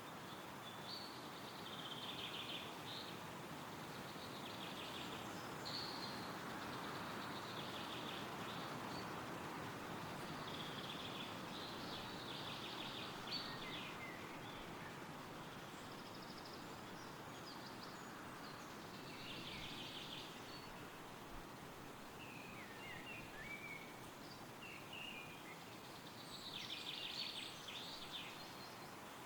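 Wind rustling through forest trees as a steady hiss that swells slightly several seconds in, with small songbirds singing short high trills and chirps again and again over it.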